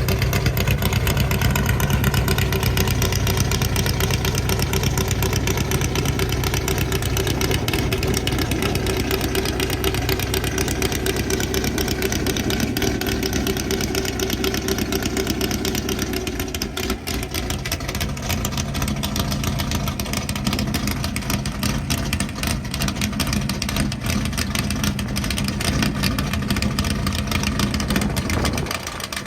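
Car-hauler truck driving, its engine running with a steady low drone over road noise. The drone eases a little over halfway through and dips again near the end.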